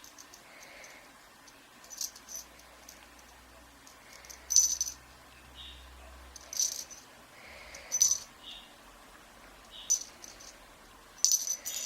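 Kittens playing, making short, sharp rattling clicks about every one and a half to two seconds, the loudest about four and a half seconds in.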